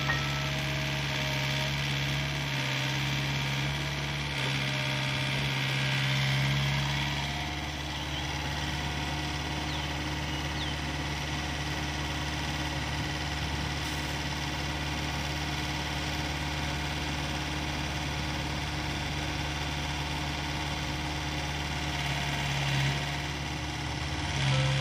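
Diesel engine of heavy earth-moving machinery running steadily. It is a little louder for the first several seconds, then settles into an even hum.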